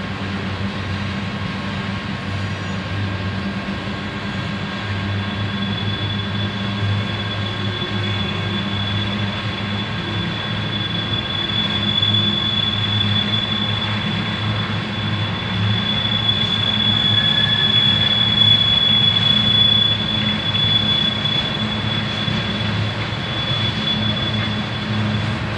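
Freight train of coal hopper cars rolling steadily past, the wheels rumbling over the rails. A thin, high, steady wheel squeal sets in about five seconds in and is strongest about two-thirds of the way through.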